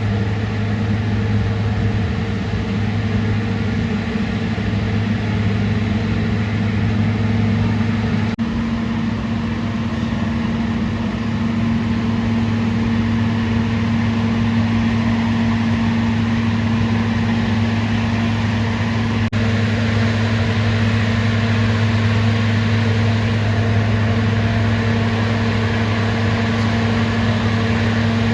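Mount Washington Cog Railway locomotive engine running with a steady, even drone.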